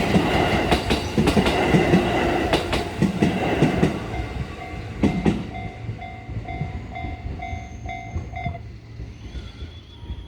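Train passing over a level crossing, its wheels clacking loudly over the rail joints and fading after about five seconds. The crossing's alarm bell rings in a steady clang about three times a second, then stops a little past the middle once the train has cleared.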